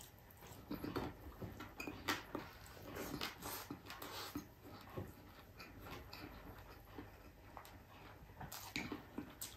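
Faint, close-miked mouth sounds of a man eating fried round scad (galunggong) and rice by hand: chewing, lip smacks and small irregular clicks.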